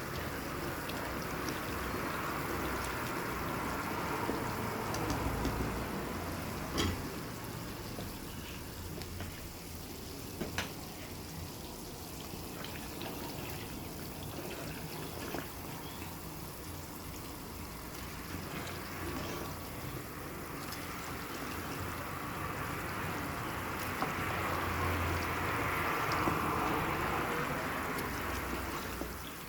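Liquid pouring or running steadily, swelling louder near the start and again near the end, with a couple of light knocks in between.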